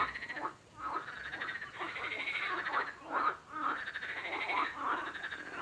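Frogs croaking in a dense run of rapidly pulsed calls, with a few brief pauses.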